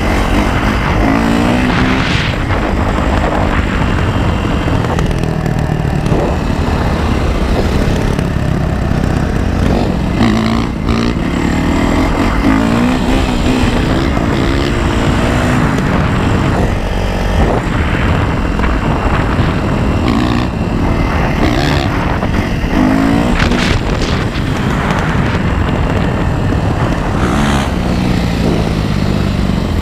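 Yamaha YZ450F single-cylinder four-stroke dirt bike engine under way, revving up and falling back again and again as the rider works the throttle and gears. A constant rushing noise runs beneath it.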